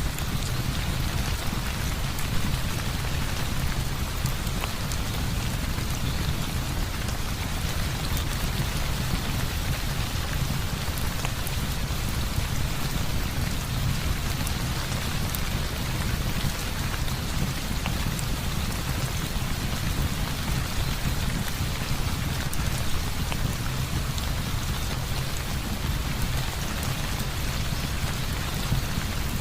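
Heavy rain falling steadily, with a constant deep low rumble underneath.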